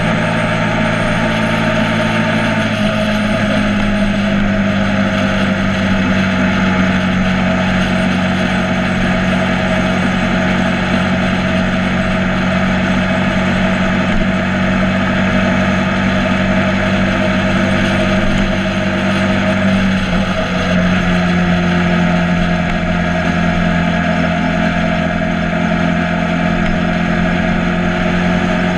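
Motorcycle engine running steadily under way, with a constant rushing noise over it. The engine note shifts slightly about three seconds in and again about twenty seconds in.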